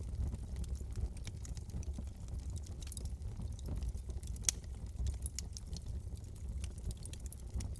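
Wood fire in a fireplace crackling: irregular sharp snaps and pops over a low steady rumble, with one louder pop about four and a half seconds in.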